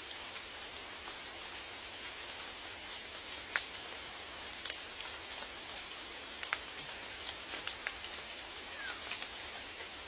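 Steady rain hissing, with scattered louder drops tapping close by, one sharper than the rest about three and a half seconds in.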